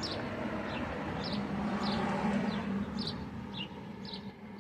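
A small bird chirping repeatedly, short high chirps about every half second, over a low steady rumble that swells about two seconds in and then fades.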